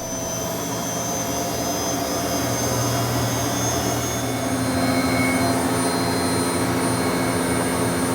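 Bosch washing machine's drum motor running, a steady whirring spin that builds slightly in loudness: the machine spinning on its new motor carbon brushes.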